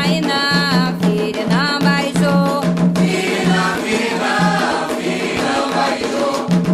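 Candomblé Ketu chant for Xangô: a single voice sings sliding lines, and a chorus of voices takes over about three seconds in, over steady percussion.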